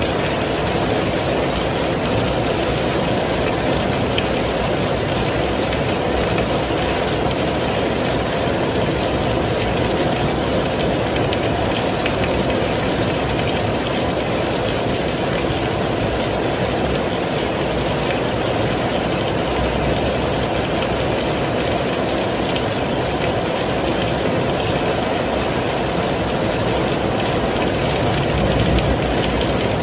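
Heavy rain falling steadily: an even, unbroken rush of noise, weighted toward the low end.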